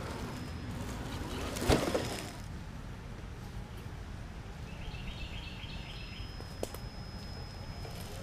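Outdoor ambience with a steady low rumble, a short loud noise about two seconds in, and a songbird giving a quick run of high chirps in the middle.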